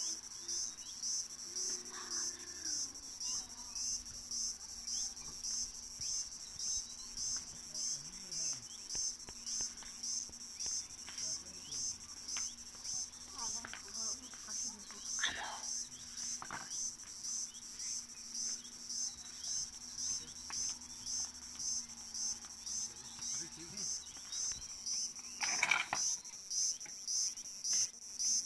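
Cricket chirping in a steady, even rhythm of high-pitched pulses, about two a second, with a couple of brief louder sharp calls about halfway through and again near the end.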